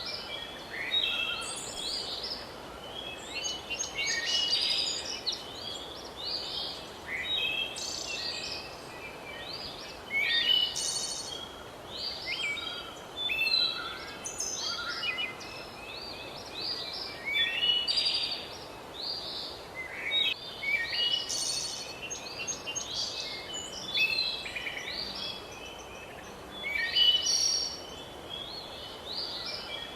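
Several songbirds chirping and singing over one another in a steady chorus, with a faint even hiss of outdoor background beneath.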